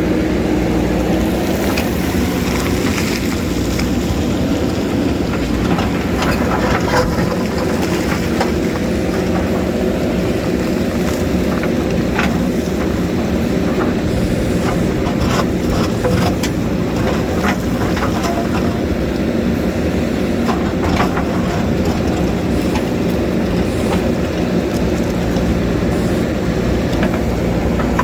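JCB backhoe loader's diesel engine running steadily, with scattered sharp knocks and scrapes of the bucket working against rock.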